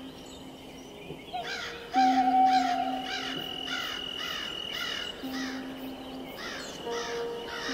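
Background music of long held notes, with runs of harsh, crow-like caws repeating about twice a second. The caws pause briefly about two-thirds of the way through, then start again.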